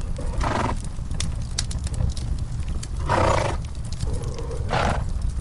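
Wood fire crackling over a steady low rumble, with three short breathy snorts from horses in a stall.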